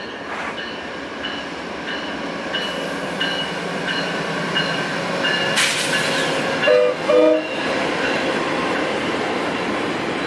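Amtrak passenger train of bi-level cars, hauled by two Genesis diesel locomotives, passing close by: a steady rumble of wheels on rail with short, regularly repeated high squeals from the wheels. A sharp clatter comes about halfway through, then two short horn notes, the loudest sounds.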